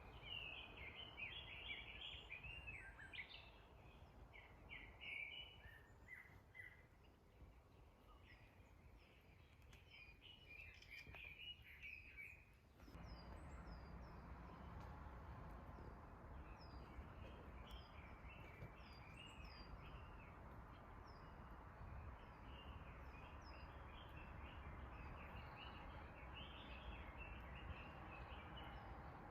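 Faint birdsong: several small birds chirping and twittering over soft outdoor background noise. About 13 seconds in, the background noise steps up abruptly, with a steady low rumble, and quick high chirps carry on over it.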